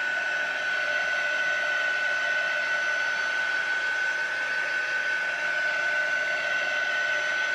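Craft heat tool (embossing gun) running steadily, its fan giving a constant whir with a high whine, blowing hot air to dry wet paint and ink.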